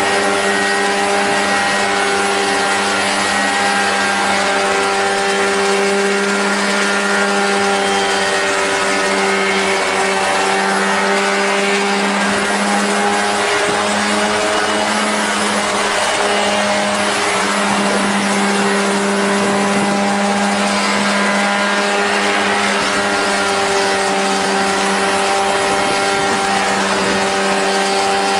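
Homemade light aircraft's motor and propeller running steadily at a constant speed, a loud even hum whose pitch wavers only slightly through the middle.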